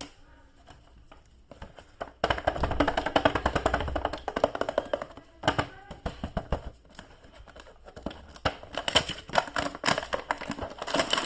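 Rapid, irregular clicking and crackling of plastic toy packaging being handled and opened, starting about two seconds in.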